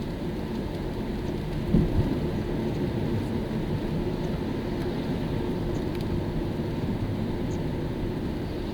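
Car driving on a rain-wet road: steady low rumble of tyres and engine, with two brief thumps a little under two seconds in.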